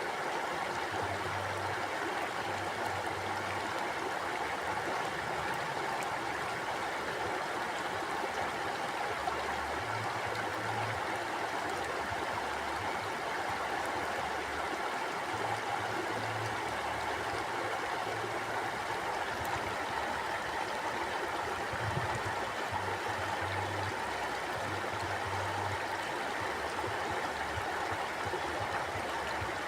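Mountain stream flowing, a steady rush and babble of water with no break or change.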